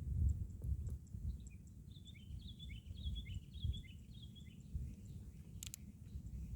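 A small bird singing a quick run of about eight short, falling notes for a few seconds, over a steady low rumbling noise. A single sharp click near the end.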